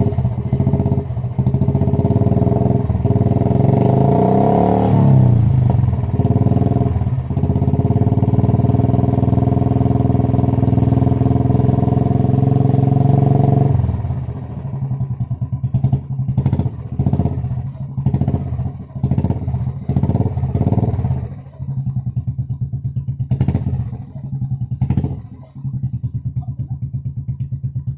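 A Royal Enfield Classic 350's single-cylinder engine running through an aftermarket Wild Boar silencer. It runs steadily with a brief rev about four seconds in. After about fourteen seconds it drops quieter and turns uneven, with separate pulses until the end.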